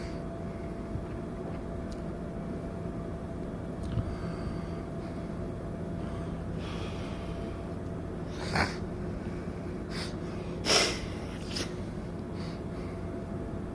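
Steady low mechanical hum from the cruise ship's machinery during docking, with a few fixed droning tones. Two short breathy hissing bursts come through about two thirds of the way in, the second one the louder.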